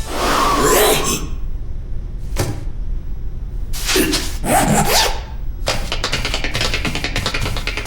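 Cartoon sound effects: several short rubbing and scraping noises, then a fast run of ticking from a little past the middle.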